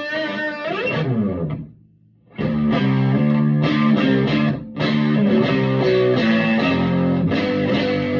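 Electric guitar played through a Vintage Sound Amp: a phrase ends with a downward slide and a short pause about two seconds in, then strummed chords and notes ring out, with a brief break just before five seconds.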